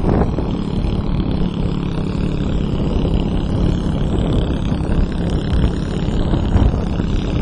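Motorbike engine running steadily under loud, churning noise concentrated in the low end.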